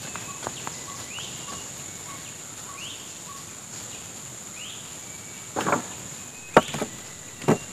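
Steady high-pitched drone of forest insects with a short rising call repeating four times, then three sharp chopping strikes on wood in the second half.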